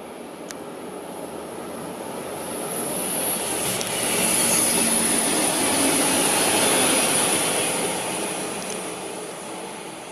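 A Bayerische Regiobahn diesel multiple unit passing at speed. Its wheel-on-rail rumble and a high hiss build as it approaches, are loudest for a few seconds in the middle as it goes by, then fade as it runs away.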